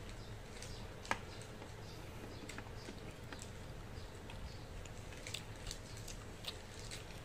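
Close-up eating sounds of someone chewing chicken feet and rice eaten by hand: scattered small wet clicks and smacks of the mouth, with one sharper click about a second in.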